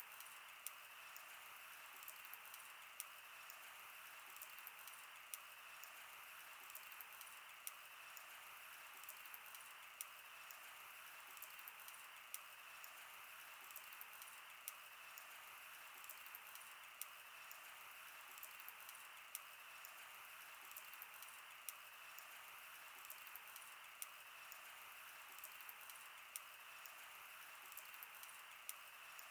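Wood fire burning: a steady soft hiss with irregular crackling, and a sharper pop every second or two.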